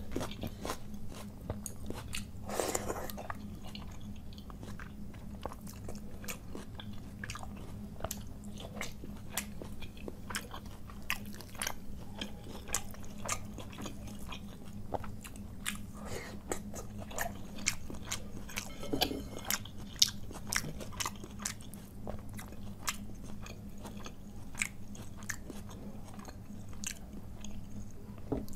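Close-miked eating of water-soaked panta bhat rice by hand: steady wet chewing and mouth smacks with occasional crunchy bites, over a steady low hum.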